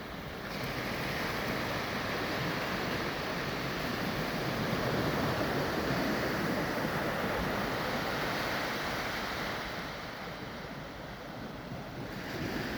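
Sea waves washing onto the shore, a rushing surf that swells and then eases, dropping around ten seconds in and rising again near the end.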